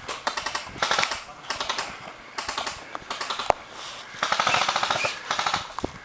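Airsoft guns firing in several bursts of rapid clicking full-auto shots, with a single sharper crack in between.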